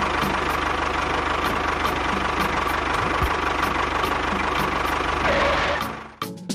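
A small engine running steadily at an even speed, cutting off abruptly near the end.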